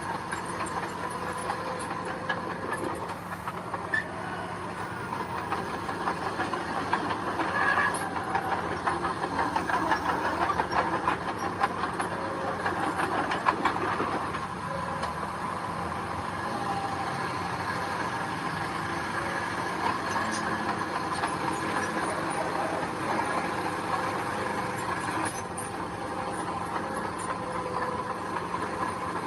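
Diesel engine of a mini crawler bulldozer running steadily, with the clatter of its steel tracks and blade on gravel; it works harder between about 8 and 14 seconds.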